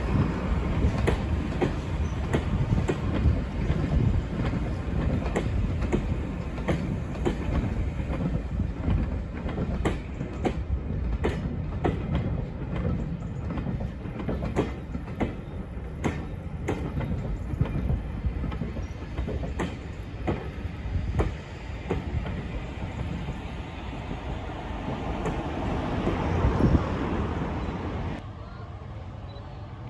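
Railway train running on jointed track: a steady low rumble with rapid, uneven clicks of the wheels over rail joints. The sound drops off abruptly near the end.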